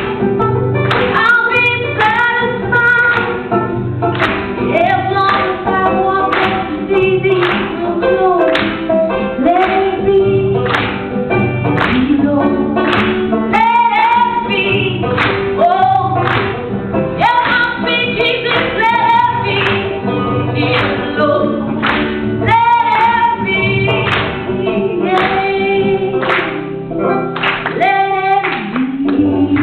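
Singing of a campfire-song medley over a steady beat of sharp strokes about twice a second.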